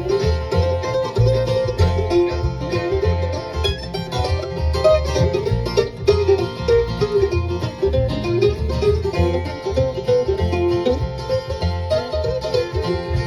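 Live bluegrass band playing an instrumental break between verses, with banjo prominent over guitar and a steady bass pulse.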